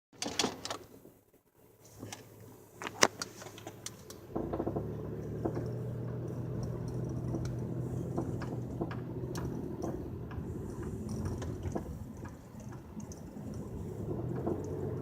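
Clicks and one sharp knock, then from about four seconds in a car's engine running steadily with scattered faint clicks over it, in a 2007 Pontiac Grand Prix GT.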